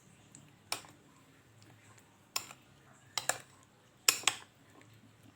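Kitchen utensil clinking against a mixing bowl, about six sharp clinks at irregular intervals, two of them in quick pairs, while pineapple pieces are worked through a flour batter.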